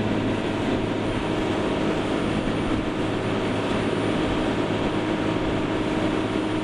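A fishing boat's inboard engine running steadily under way while towing another boat: a constant engine drone with a low hum, mixed with hull and water noise.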